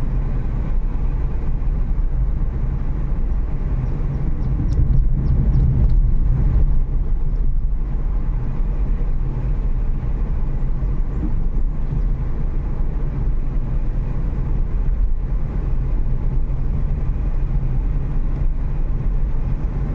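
Car interior noise while driving on a rough road: a steady low rumble of tyres and engine, slightly louder for a couple of seconds about five seconds in.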